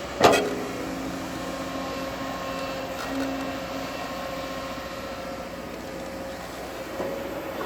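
Crawler bulldozer's diesel engine running steadily, with a loud metallic bang just after the start.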